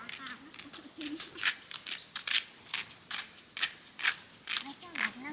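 Insects keeping up a steady, high-pitched drone, with light clicks scattered through it.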